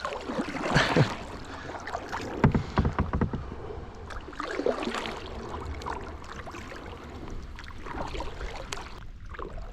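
Kayak paddle strokes swishing and splashing in river water, with a few short knocks about two and a half seconds in.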